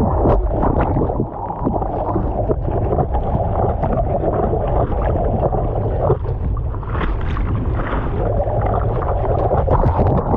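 Ocean surf breaking and churning around the microphone: a loud, continuous rush of water with splashing, and wind buffeting the mic.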